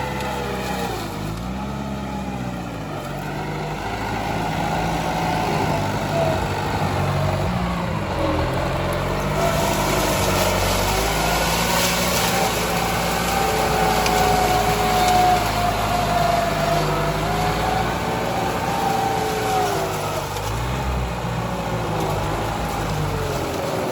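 Tractor engine running under working load, its pitch rising and falling as the revs change. It grows louder and noisier in the middle.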